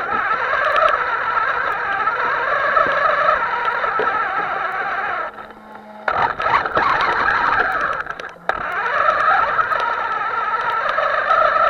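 Small electric motor of a radio-controlled boat running with a steady whir, cutting out briefly about five seconds in and again about eight seconds in.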